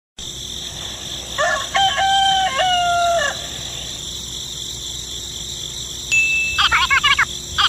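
Animal calls: one long pitched call held for about two seconds, with a couple of small steps in pitch, starting about a second and a half in. Rapid chirping follows near the end.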